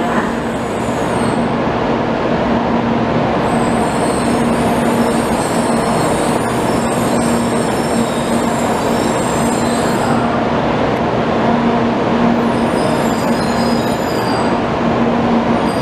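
N700A Shinkansen bullet train moving past the platform: a steady running rumble and hum, with thin high-pitched wheel squeal from about four seconds in to ten seconds, and again briefly near the end.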